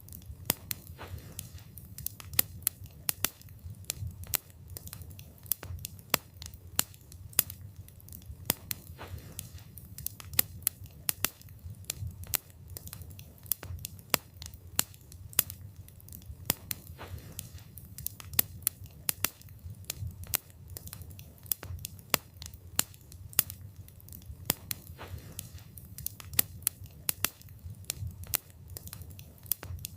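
Wood fire burning, with irregular sharp crackles and pops from the burning wood, several a second, over a low steady rumble of the flames.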